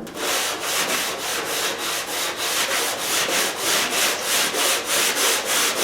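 Hand block sanding of a car body panel: sandpaper on a flat wooden 1x2 block rubbed back and forth in quick, even strokes, about four or five a second. The panel is being blocked to show up its high and low spots after dent repair.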